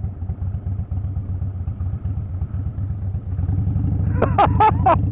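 Harley-Davidson V-twin motorcycle engine running at low speed, a steady pulsing rumble. A voice calls out briefly near the end.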